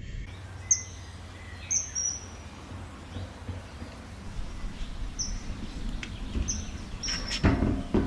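A small bird chirping: short high chirps, about six of them at irregular intervals of a second or so, over steady low background noise. A brief knock near the end.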